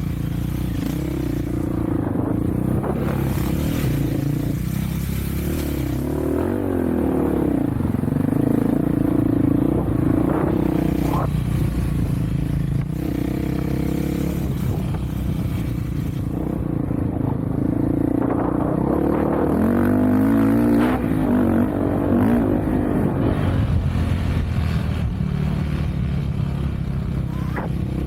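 Off-road vehicle engine running under way, its pitch rising and falling repeatedly as the throttle is worked, with a few knocks and rattles from riding over rough ground.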